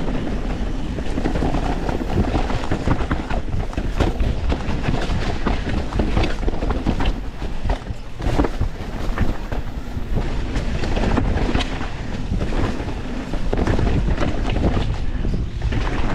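Wind rushing over a helmet-mounted action camera as a YT Industries Capra 4 mountain bike descends a rough trail: a steady rumble with frequent knocks and clatter from the tyres and bike over the rocky ground.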